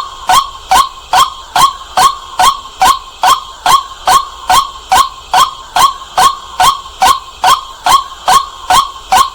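White-breasted waterhen's 'kwak' call repeated over and over at an even pace, about two and a half short sharp notes a second, loud and clear.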